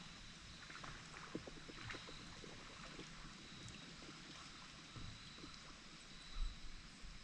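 Faint paddle strokes in river water: soft splashes and drips, with a low knock about six seconds in.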